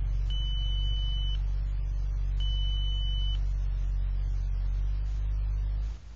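Audi A6 2.7 TDI V6 diesel idling steadily just after a cold start, with two steady high beeps of about a second each in the first half. The engine sound drops away sharply near the end.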